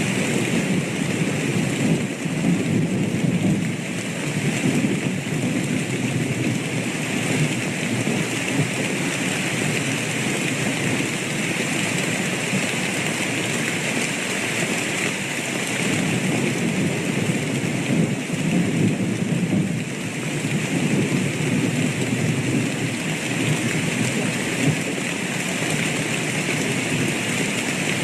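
Steady heavy rainfall with low, rolling thunder rumbles that swell near the start and again about two-thirds of the way through.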